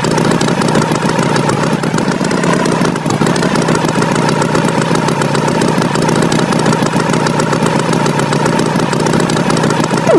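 Tractor engine sound effect running steadily, a continuous rough mid-pitched chug, with a short rising squeal right at the end.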